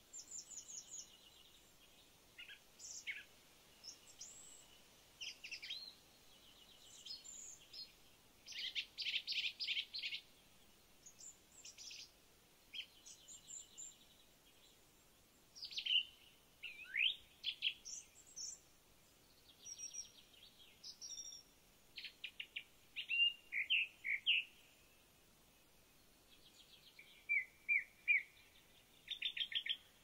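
Songbirds singing in short, varied phrases: high chirps, quick trills and rapid strings of notes with brief quiet gaps between them.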